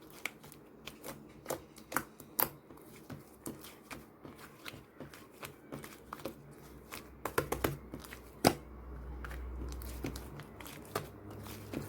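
Slime being squished and stretched by hand, making irregular sticky clicks and pops, several a second.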